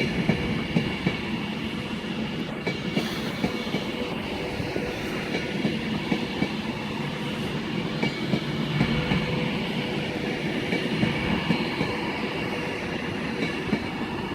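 Class 390 Pendolino electric multiple unit rolling past, its wheels clacking over rail joints under a continuous rumble, with a faint steady high tone.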